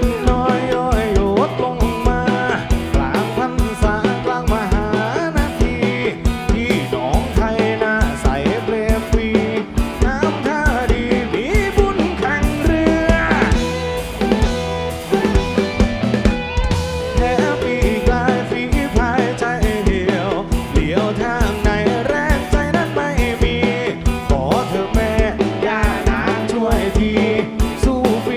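Live band playing an up-tempo song, with a drum kit keeping a steady beat under wavering melody lines.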